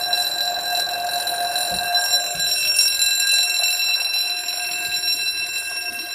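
Level crossing audible warning alarm sounding continuously as a steady high electronic tone.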